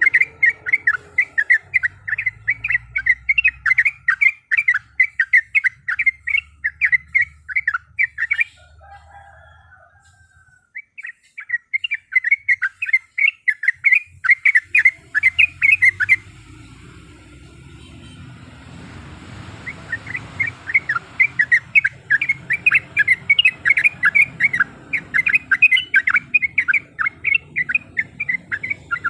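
Yellow-vented bulbul (trucuk) singing: fast runs of sharp repeated chirping notes, several a second, in three long bouts broken by two short pauses.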